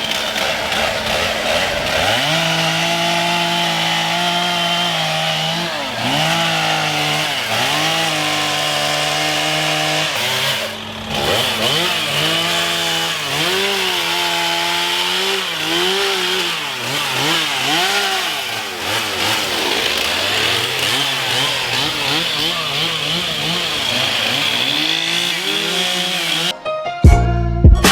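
Chainsaw cutting up the fallen tree, its engine speeding up and slowing again and again as it is throttled through the wood, with a brief drop about eleven seconds in. Music with a beat comes in near the end.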